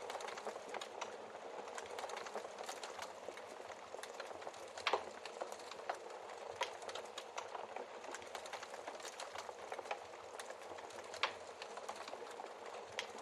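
Wood fire crackling in a fireplace: a steady hiss full of irregular small crackles, with two louder pops about five and eleven seconds in.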